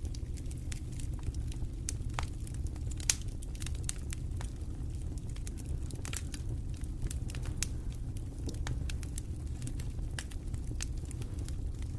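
A wood fire in a fireplace, crackling: sharp, irregular pops and snaps over a steady low rumble.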